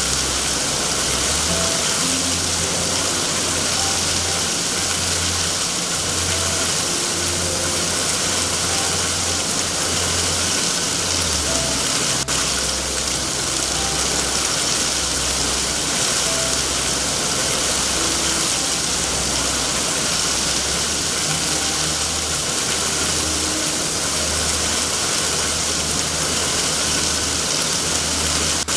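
Steady rain, a dense even hiss, over a low rumble, with faint short tones scattered through and a single click about twelve seconds in.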